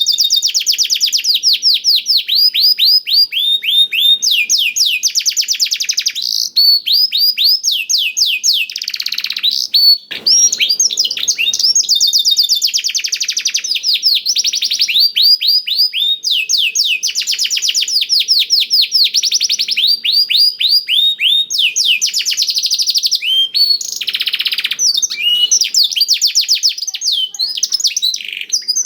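A domestic canary singing almost without pause, in long rapid trills of repeated down-slurred notes that change phrase every second or two. Its song is filled in with phrases learned from the blackthroat. There is a short break about ten seconds in.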